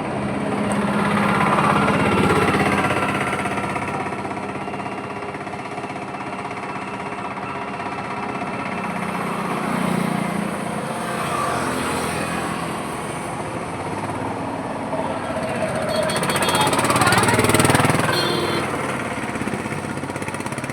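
Highway traffic: engines and tyres of passing vehicles, with a steady engine hum underneath. The sound swells three times as vehicles go by: about two seconds in, midway, and loudest near the end.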